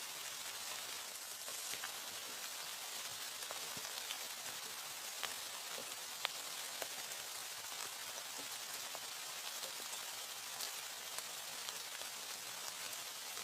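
Steady rain falling, an even hiss with scattered sharper drop ticks, one about halfway through standing out.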